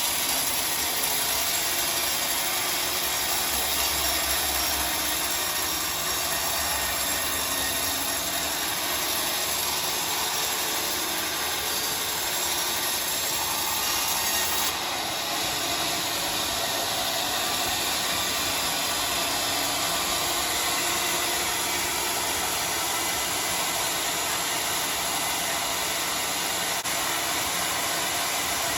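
Sawmill saw running steadily through a large log, a continuous mechanical noise of blade and machinery with a slight change in tone about halfway through.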